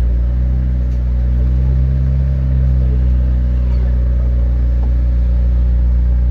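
Car engine running at steady revs: a loud, even, low drone that holds the same pitch throughout.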